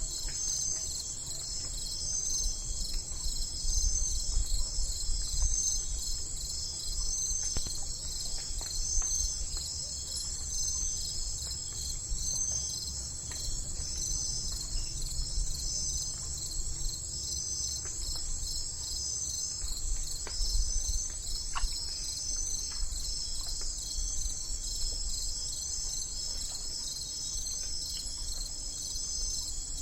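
A continuous chorus of crickets chirping in a steady pulsing trill, with a faint low rumble underneath.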